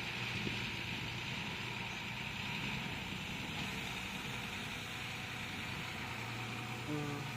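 Bulldozer's diesel engine running steadily, with a steady low hum and a hiss-like band of higher noise. About seven seconds in, a short pitched tone sounds briefly.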